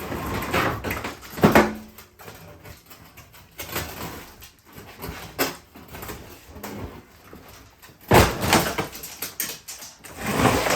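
Clattering knocks and scrapes of a front-load washing machine's parts being handled and pulled during dismantling, with a sharp knock about a second and a half in and louder bursts of rattling near the end.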